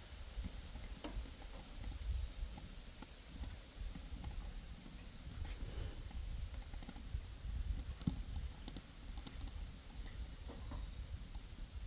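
Scattered crackles and pops from frying over a small wood-fired stove, irregular sharp clicks over a steady low rumble.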